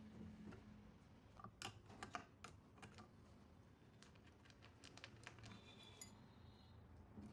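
Faint, scattered light clicks and taps, irregular and in small clusters, over a low background hum.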